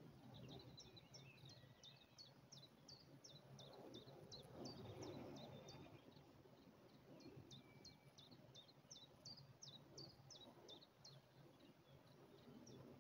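Faint songbird song: two runs of quick high chirps, about three or four a second, each note sliding downward, with a low rustling noise that swells about four seconds in.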